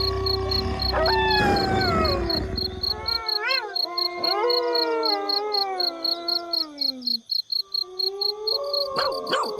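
Several wolves howling in chorus: long howls sliding down in pitch overlap a howl held on one steady note, with short rising-and-falling yips among them. Crickets chirp in a fast, even pulse behind, and a low rumble runs through the first three seconds.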